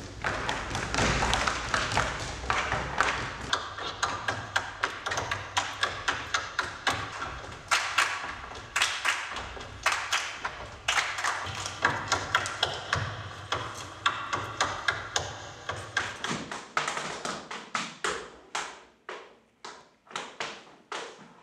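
Tap shoes striking the floor in fast, dense rhythmic patterns over a low booming. About two-thirds through, the booming drops away and the taps thin out into sparser strikes that grow fainter.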